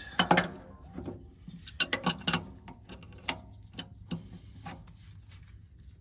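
Wrenches clicking and clinking against metal hydraulic hose fittings. The clicks are irregular, bunched near the start and about two seconds in, then come singly and grow sparser.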